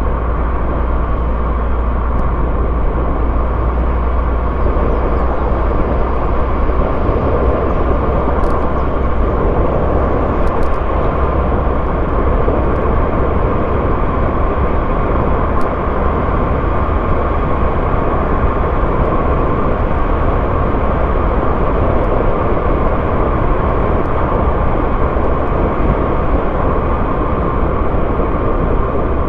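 A car driving, with its engine and tyre-on-road noise making a steady rumble with a deep low drone underneath. A few faint ticks come through in the middle.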